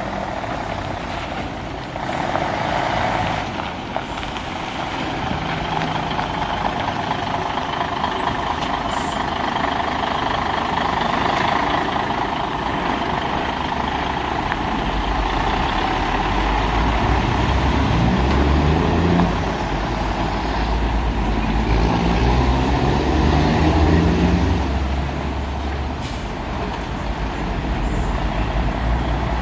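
Isuzu 6WG1 inline-six diesel engine of a tractor truck running, revved up and let drop back twice about two-thirds of the way through, over a steady hiss.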